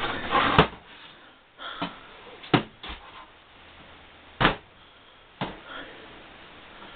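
Household objects being shifted and knocked about: about six sharp knocks and bangs at irregular intervals, with some scraping and rustling in the first second.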